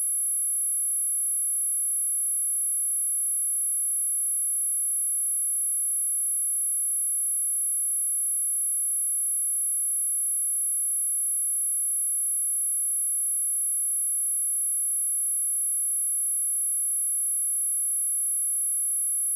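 A pure, steady 10837 Hz sine-wave test tone, a single high-pitched whine held at one pitch and level, of the kind played to test speakers or to vibrate water and dust out of them.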